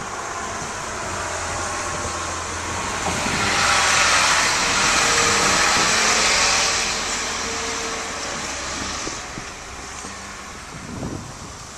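A vehicle passing on a snow-covered road: a rush of tyre noise that swells over about four seconds and then fades, over a faint low hum.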